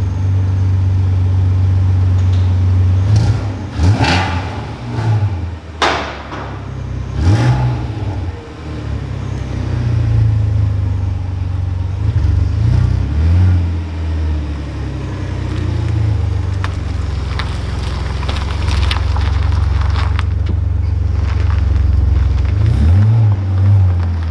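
Renault Clio V6's 3.0-litre V6 running through a newly fitted Quicksilver exhaust: a deep steady idle with several quick throttle blips that rise and fall, the strongest about four and six seconds in and again near the end.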